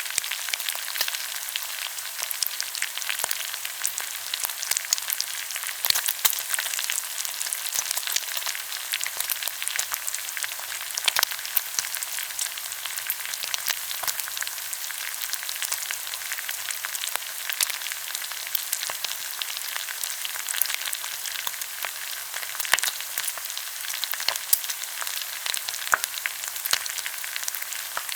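Pork belly sizzling as it grills, a steady hiss broken by frequent small crackles and pops of spitting fat.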